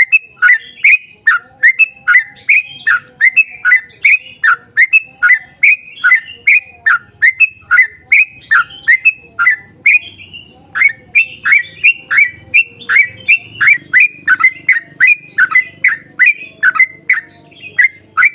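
Yellow-vented bulbul (trucukan) singing a long, rapid run of loud sweeping chattering notes, about three a second, with a brief break about ten seconds in. This is a bird in full song, the kind used to provoke other bulbuls into singing.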